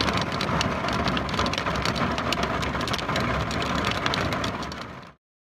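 Hail coming down hard, a dense clatter of many small impacts on surfaces, that cuts off abruptly about five seconds in.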